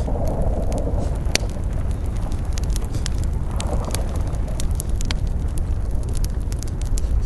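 Campfire crackling: frequent sharp pops and snaps over a steady low rumble, with a brief rush of flame near the start and again about halfway through.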